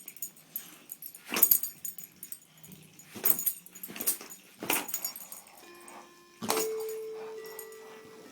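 A dog playing with a toy: several sharp knocks and clatters, then a louder hit about six and a half seconds in that sets off a ringing musical tone, which slowly fades.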